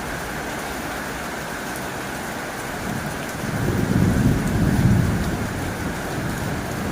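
Heavy rain drumming on a tin roof as a steady hiss. A low rumble swells up about halfway through.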